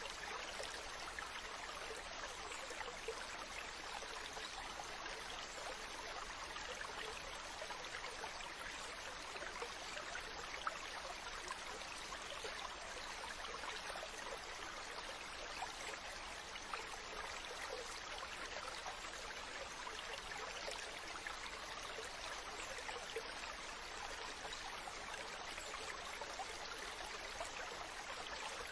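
Ocean water, a steady even rush and wash with no distinct wave swells.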